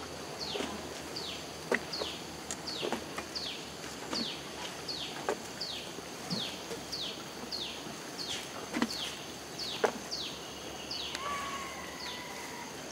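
A bird repeats a short high call that falls in pitch, about twice a second, over forest background. A few sharp knocks stand out, the loudest about two seconds in and near the ten-second mark, and a brief steady tone sounds about eleven seconds in.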